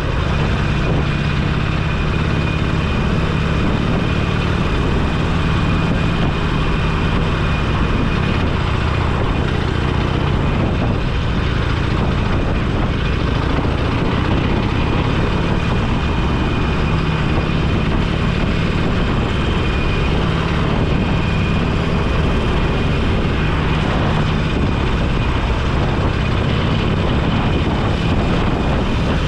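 Motorcycle engine running at a steady cruise under wind and road rush, its low drone shifting slightly in pitch a few times as the speed changes.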